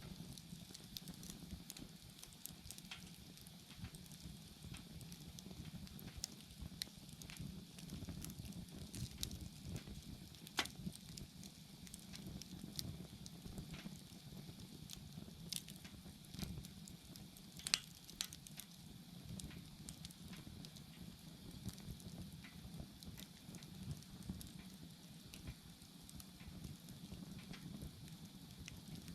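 Wood bonfire burning: steady crackling and small pops over a low rush of flame, with two louder snaps about ten seconds in and again near eighteen seconds.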